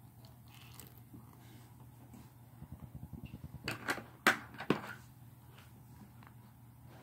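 Slime being squished and kneaded by hand: a run of quick soft squelches, then a few sharp pops, the loudest about four seconds in.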